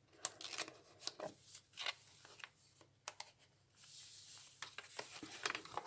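Paper and card pages of a handmade junk journal being handled and turned: faint rustles and soft taps, with a brief swishing slide of paper about four seconds in.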